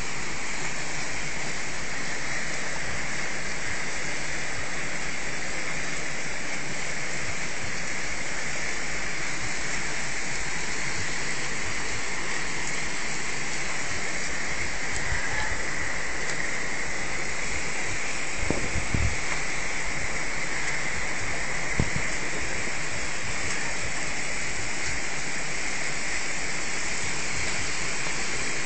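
Floodwater from an overflowing river rushing past in a steady, loud wash, with a few brief low thumps about two-thirds of the way through.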